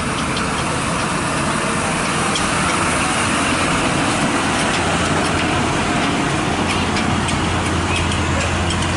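Heavy truck engine running under steady road and traffic noise. Its low drone grows stronger about five seconds in.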